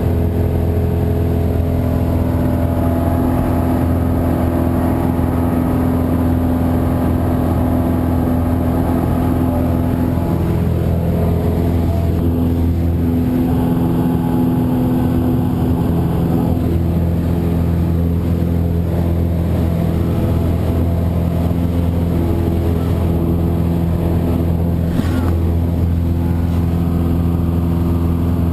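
Cessna 172's piston engine and propeller droning steadily, heard from inside the cabin, with a slight shift in the engine note about ten seconds in.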